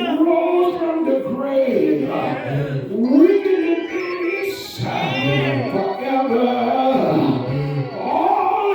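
A man singing in long, sliding, drawn-out phrases over sustained church instrumental accompaniment.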